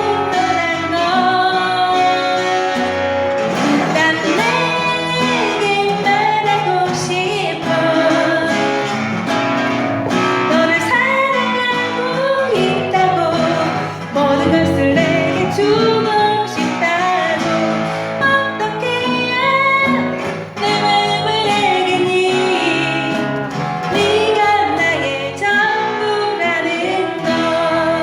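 A woman singing a Korean pop ballad in a natural, unamplified voice, accompanied by guitar.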